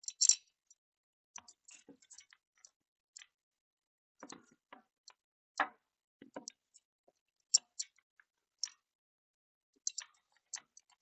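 Small metal parts and a seal plate clicking and tapping as they are handled and fitted, in sparse, irregular light ticks with a few sharper clicks.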